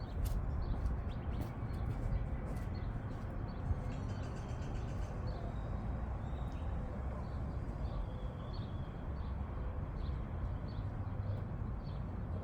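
Birds chirping in short, repeated calls, over a steady low background rumble.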